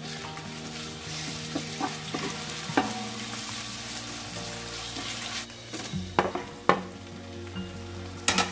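Onions and ginger-garlic paste sizzling in hot oil in a large metal pot while being stirred with a wooden spatula. There are a few sharp knocks in the second half.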